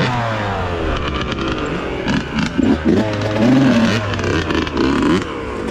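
Dirt bike engine running, its revs falling away early on, then rising and falling unevenly.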